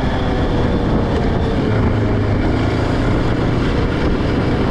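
Yamaha Raptor 700R ATV's single-cylinder engine running steadily under way, with a steady low hum coming in a little under two seconds in.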